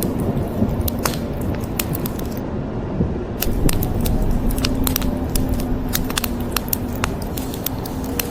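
Wood fire crackling, with many sharp irregular pops and snaps, over a steady hiss of rain.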